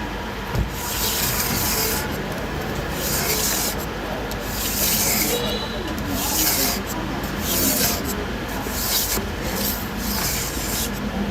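Repeated rasping, scraping strokes, about one a second, over a steady noisy background.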